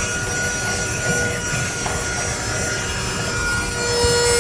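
Handheld mini vacuum running with a steady whine while it sucks insulation out of the boat hull, with a rasping rub from the material at the nozzle. The whine gets louder near the end.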